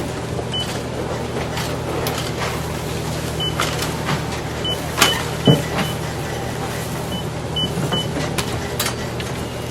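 Ambience with a steady low machine hum, scattered clicks and knocks, and a few very short high beeps. A louder knock comes about halfway through.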